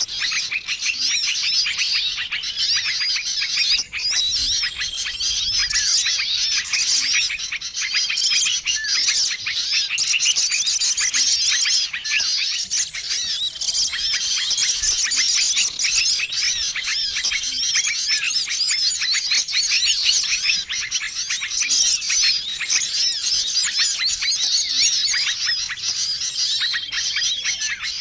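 Dense, unbroken chorus of many small songbirds chirping and twittering together, a bird-lure recording that mixes several species' calls to draw in small wild birds. A short level whistled note recurs every few seconds over the chatter.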